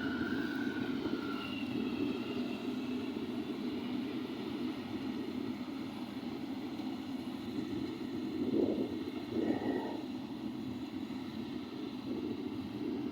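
An engine running steadily, with a couple of brief swells in level about nine seconds in.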